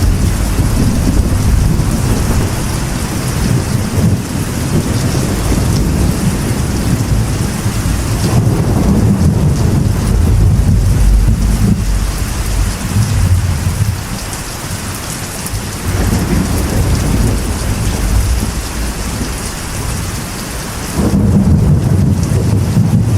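Heavy rain drumming on a metal roof, with thunder rumbling underneath throughout. The rumble swells and eases in waves and surges again near the end.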